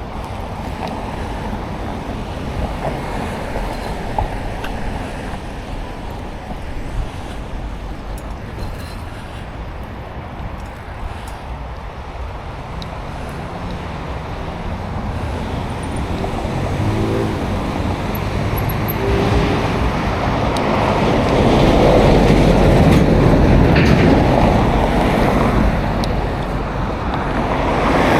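Continuous rushing noise of a bicycle ride, heard through a neck-mounted action camera, steady at first and growing louder in the second half.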